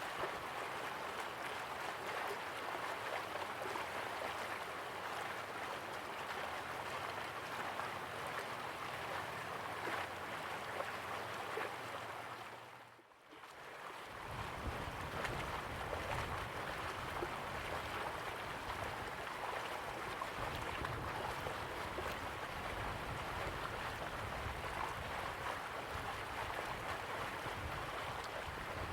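Slow-flowing river water, a steady rushing wash. About halfway through it dips briefly and fades back in, with a deeper low rumble afterwards.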